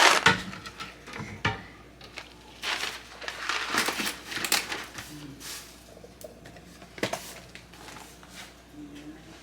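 Irregular rustling and light knocks and clatter of grocery items being handled, with a sharp click about seven seconds in, dying down toward the end.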